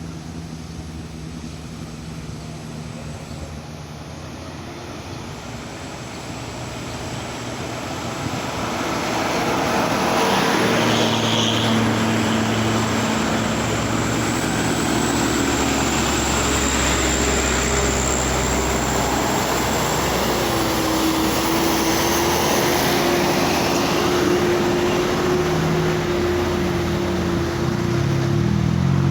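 Heavy truck engine labouring in a low gear up a steep climb, growing louder from about eight seconds in as it draws near and holding a steady drone.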